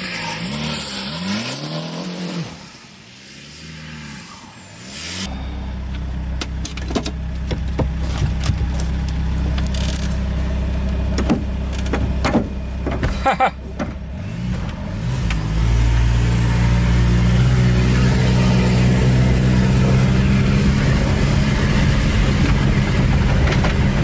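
Twin-turbo TDI diesel engine in a Vanagon Syncro, driving through a PDK gearbox. It revs up and down a few times, then runs steadily under load. A few sharp clicks come in the middle, and it grows louder as the van speeds up over the second half.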